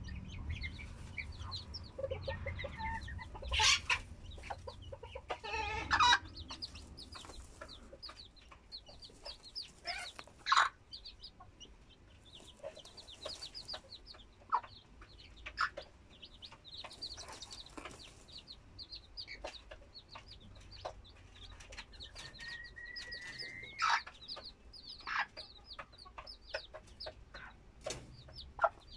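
Chickens with young chicks: rapid, constant high peeping, broken now and then by louder chicken calls and clucks, including one drawn-out rising call near the end.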